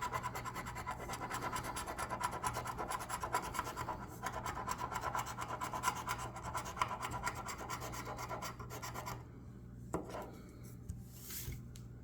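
Scratch-off lottery ticket being scratched, a quick run of rapid scraping strokes over the card's coating that stops about nine seconds in, followed by a single click.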